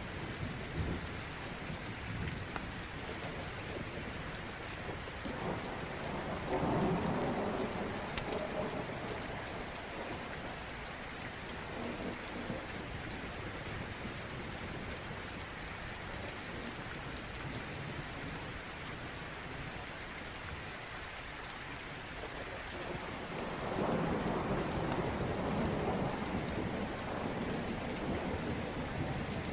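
Steady heavy rain pattering, with rolling thunder rumbling up twice: once about six seconds in and again for a few seconds near the end.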